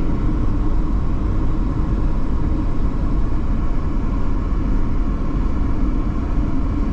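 Steady low rumble of a moving car heard from inside the cabin: road and engine noise with no break or change.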